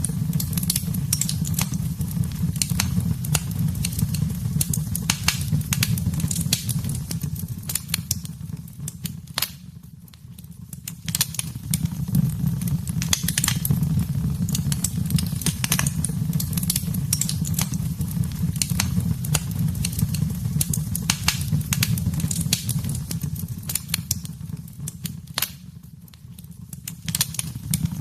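Fire burning in a fireplace: dense, irregular crackles and pops over a steady low rumble of flame. The sound thins out and drops briefly twice, about ten seconds in and near the end.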